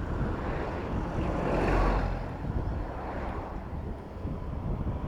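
Wind rushing over the microphone of a moving bicycle, over a steady background of city road traffic, with a swell of noise about a second and a half in that then fades.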